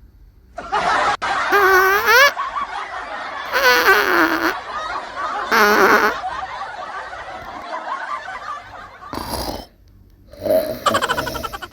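A person laughing in several loud bursts, the voice swooping up and down in pitch.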